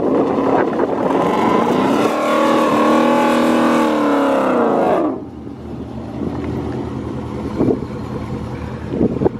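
Ford Mustang 5.0's Coyote V8 revved hard and held high for about four seconds while the rear tyres spin in a burnout at the line, then let off suddenly about five seconds in. Afterwards the engines idle, with a couple of short sharp sounds near the end.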